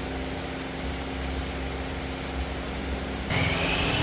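A motor running with a steady hum; a little over three seconds in, a louder, high-pitched whine starts up on top of it.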